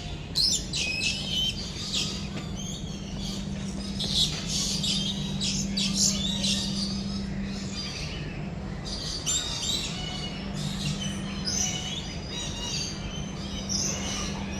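Many birds chirping and tweeting together, short high calls overlapping one another without a break, over a steady low hum.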